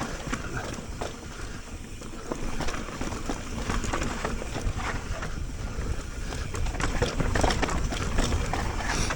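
Mountain bike rolling along a dry, loose dirt trail: knobby tyres running over the dirt under a steady low rumble, with frequent scattered clicks and rattles from the bike.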